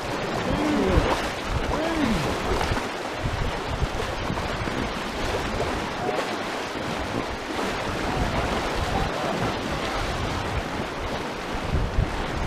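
Rushing whitewater of a river rapid on the Arkansas River, a steady loud rush of churning water around the raft.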